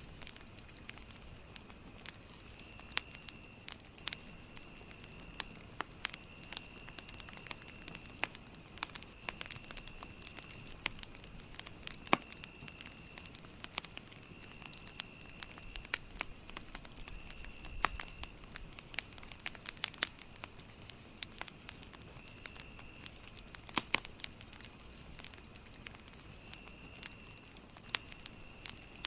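Campfire crackling, with irregular sharp pops throughout. Behind it, insects keep up a steady high whine and an even chirping of about two or three chirps a second, with a lower trill starting and stopping every second or two.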